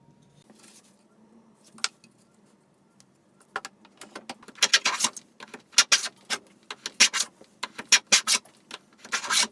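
Wood being worked with a hand tool to cut grooves. A few faint clicks, then from about three and a half seconds in a fast, irregular run of sharp scraping strokes, several a second.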